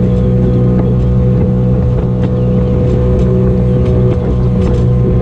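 Motorboat engine running at a steady speed: a loud, even drone that holds one pitch.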